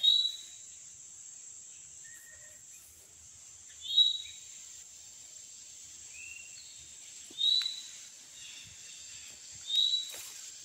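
A songbird calling outdoors: four loud, short, high notes a few seconds apart, each slurring slightly downward, with fainter lower calls between them, over a steady high insect drone.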